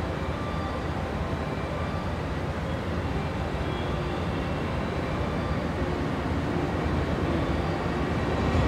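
Steady low rumble of a diesel express train idling at a station platform, slowly growing louder toward the end as an approaching freight train comes into earshot.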